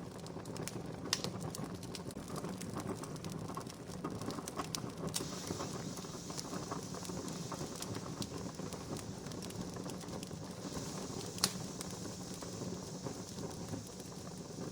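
Wood campfire crackling: a steady hiss of burning with scattered sharp pops and snaps, two of them louder, about a second in and again near the end.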